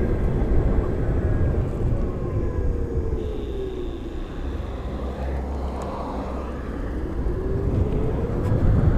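Wind and road noise from a moving Zero SR electric motorcycle, with its faint electric-motor whine falling in pitch as it slows, then rising again about seven seconds in as it picks up speed.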